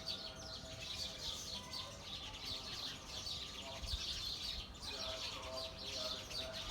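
A dense chorus of many small birds chirping all at once, a flock chattering without a break.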